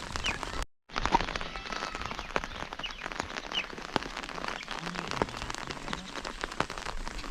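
Steady rain falling, with many sharp drips and drops hitting a surface close by. A small bird chirps a few times, and the sound breaks off for an instant about a second in.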